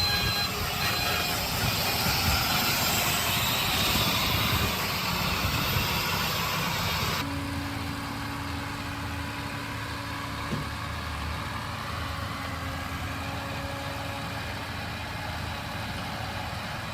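Heavy diesel earthmoving machinery running, with strong hiss and rumble for about the first seven seconds. It then changes abruptly to a quieter, steady engine idle with a constant hum.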